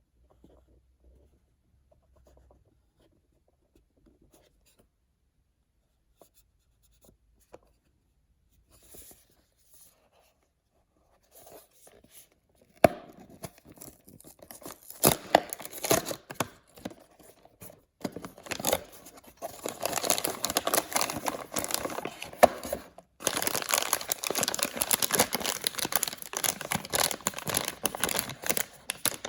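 Faint handling at first, then from about halfway through a blind-bag package being torn open and crinkled by hand, the tearing and rustling becoming continuous toward the end.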